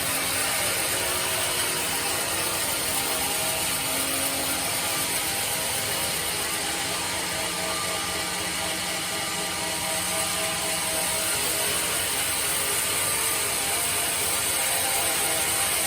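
Sawmill bandsaw machine running steadily: a continuous mechanical whir with a high hiss over it.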